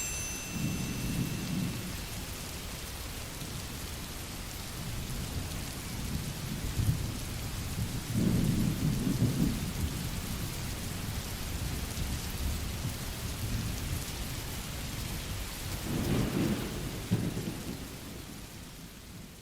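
Steady rain recording with low rumbles of thunder swelling about a second in, around eight to ten seconds in, and again around sixteen seconds in. At the very start a soft triangle's ring dies away, and near the end the rain fades out.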